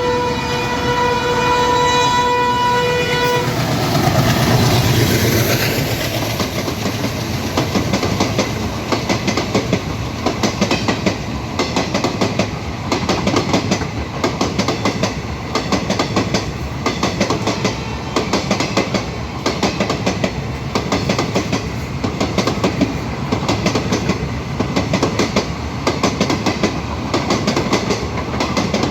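ALCO diesel locomotive sounding its horn, a chord that cuts off about three and a half seconds in. Its engine rumble swells as it passes, then the coaches follow with a steady clickety-clack of wheels over rail joints.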